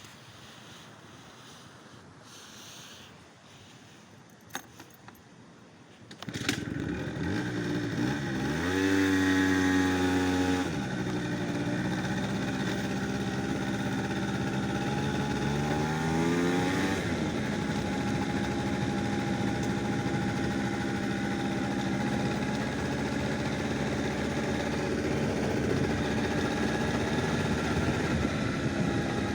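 A vehicle engine comes in suddenly about six seconds in, rises in pitch as it accelerates, falls back twice as it changes gear, then runs steadily.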